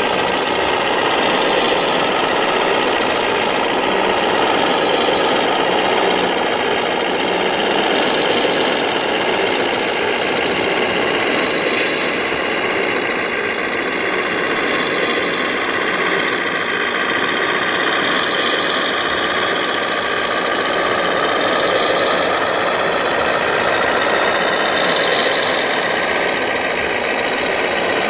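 Electric motors and geared drives of 1/14-scale RC construction models running steadily, a dense mechanical whir with high whines that drift up and down in pitch as the machines work.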